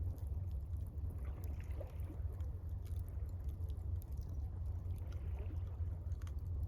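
Gentle water lapping and gurgling at the shore, with faint scattered crackles from a campfire, over a steady low rumble.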